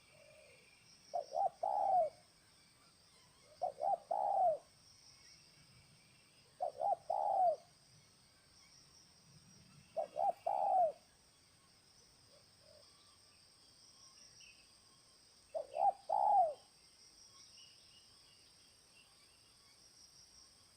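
Spotted dove (terkukur) cooing: five calls a few seconds apart, each two short notes followed by a longer, rolling coo. A steady high insect drone runs underneath.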